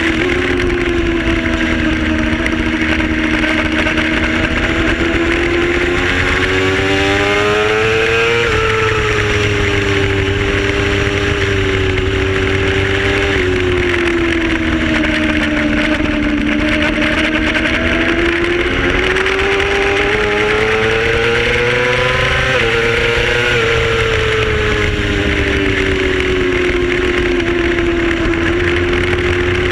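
Onboard sound of a race motorcycle's engine pulling through the gears: its pitch climbs slowly and drops suddenly at the shifts, about 8 and 22 seconds in, with a downward step in between. Steady wind noise runs underneath.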